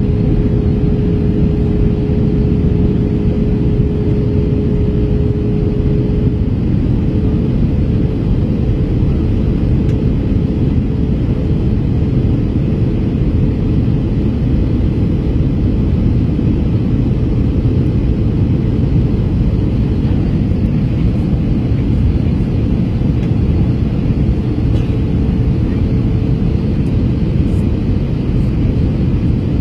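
Steady cabin roar of an Airbus A321 airliner in flight, engine and airflow noise, with a steady hum tone that is strongest for about the first six seconds.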